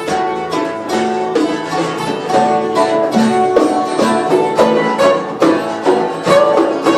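A band playing an instrumental passage: plucked string instruments picking a melody over a steady beat.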